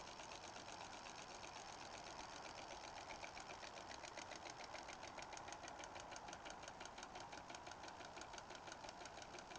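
Sunbeam Rain King K20A gear-driven sprinkler running: a faint hiss of spraying water with a rapid, even ticking from its drive.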